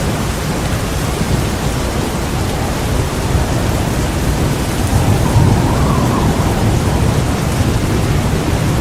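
Heavy rain falling steadily, with a low rumble of thunder that swells about five seconds in and fades again toward the end.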